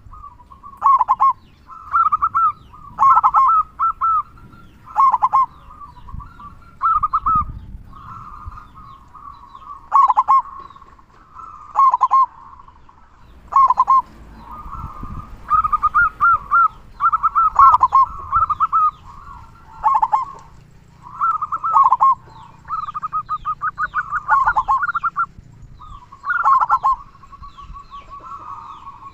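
Zebra dove cooing: short bursts of quick staccato coos repeated about every one to two seconds, with a longer rolling run of coos near the end.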